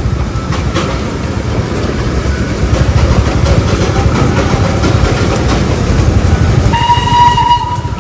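Darjeeling toy train running close by, with a steady low rumble and clatter, then one horn blast about a second long near the end. Motorcycle engine and wind rumble are mixed in.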